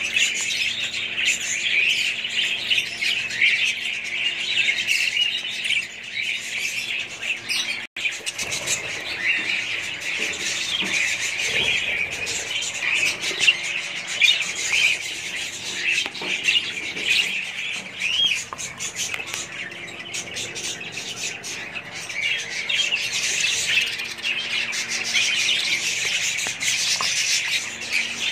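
Many budgerigars chirping and chattering together in a dense, continuous warble, with a momentary break about eight seconds in.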